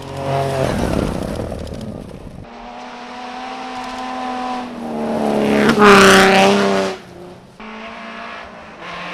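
Rally car engine building up to a loud pass at full throttle about six seconds in. The sound cuts off abruptly, and another rally car is heard approaching near the end.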